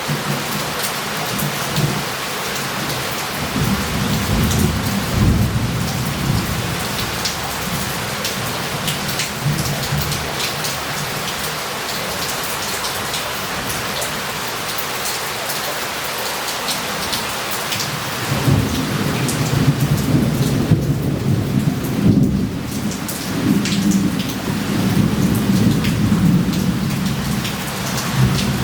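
Heavy rain falling steadily on a street, with thunder rolling twice: a long low rumble a few seconds in, and another starting past the halfway mark that runs on for about ten seconds.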